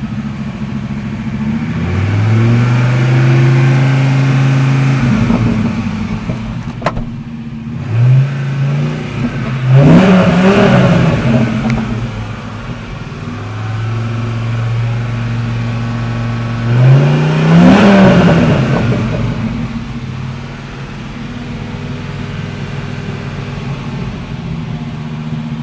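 Dodge Ram SRT-10's 8.3-litre Viper V10 idling and being revved: held at raised revs twice, with sharp blips of the throttle in between and near the end.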